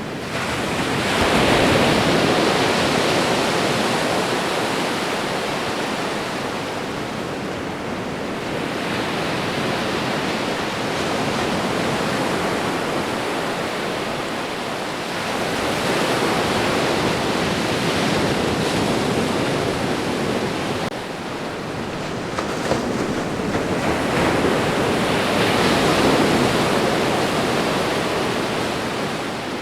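Ocean waves washing onto a shore: a continuous rushing surf that swells and ebbs as a new wave breaks every several seconds.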